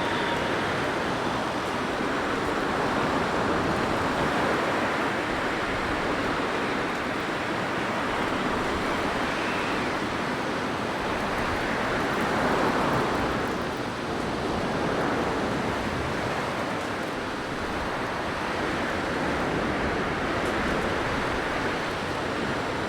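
Blizzard wind blowing steadily: a continuous rushing that swells a little about twelve seconds in and eases again.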